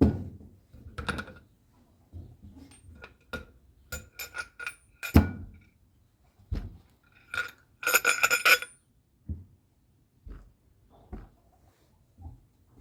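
Metal tools and parts clinking and knocking while being handled. Irregular sharp ringing clinks throughout, with a quick run of clinks about eight seconds in.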